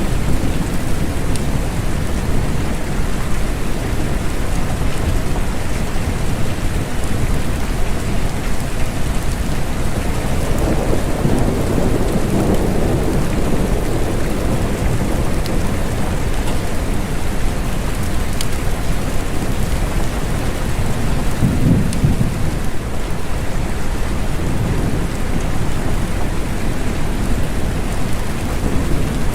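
Steady rain with a deep rumble underneath that swells twice, about ten seconds in and again just after twenty seconds: distant thunder.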